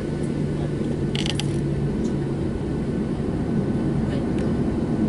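Boeing 737-700 cabin noise heard from a window seat: the steady low rumble of the engines and airflow, with a short rattle or creak of the cabin fittings about a second in.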